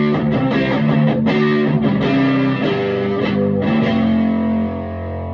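Electric guitar played on its front Scala humbucker through the Vintage Sound Amp's plexi channel, with light overdrive: a run of picked notes and chords, then a chord left to ring out from about four seconds in.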